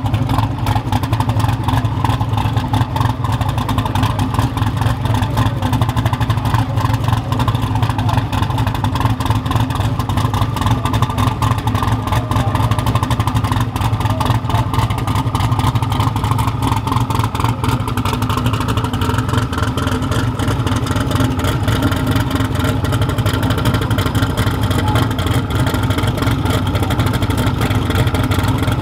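A truck engine running loudly and steadily close by, its fast exhaust pulses continuous, with the engine note slowly rising in pitch through the middle.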